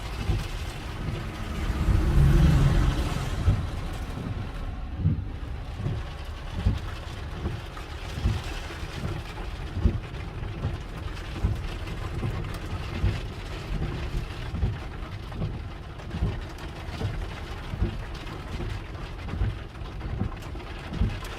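Rain and gusting wind during a thunderstorm, with many short low thumps throughout and a loud low rumble that swells about two seconds in.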